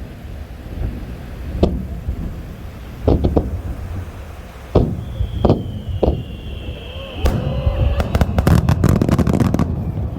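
Aerial fireworks going off: single booms spaced a second or so apart, a long high whistle that falls slightly in pitch, then a rapid run of crackling reports lasting a couple of seconds.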